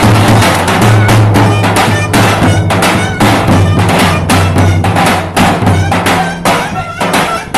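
Lively folk dance music: fast, dense drum beats over a steady low drone, with short high melody notes from a reed or bagpipe-like wind instrument.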